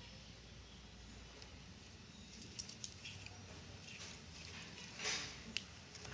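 Faint handling noises of cardboard craft work: a few light clicks and taps, and a short brushing noise about five seconds in, the loudest moment.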